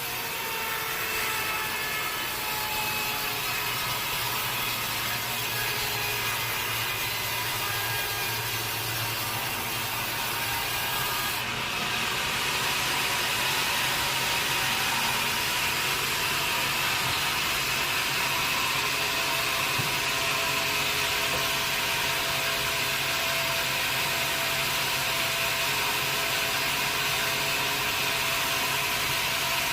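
Sawmill saw cutting through a teak log, a steady machine whine with the hiss of the blade in the wood. It gets louder and harsher about twelve seconds in and holds there.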